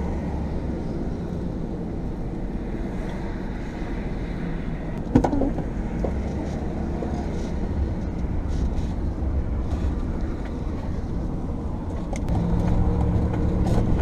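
Motor vehicle engine running, heard from inside the vehicle, with a sharp knock about five seconds in; the engine note grows louder and steadier near the end.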